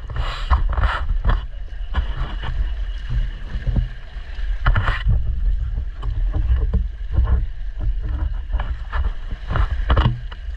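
Fishing boat trolling on a rough sea: a steady low engine rumble under wind and water noise, with irregular louder slaps and gusts.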